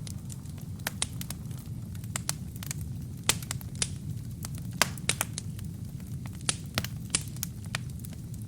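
Wood fire burning in a fireplace: a steady low rumble of the flames with irregular sharp crackles and pops from the burning logs, a few of them louder than the rest.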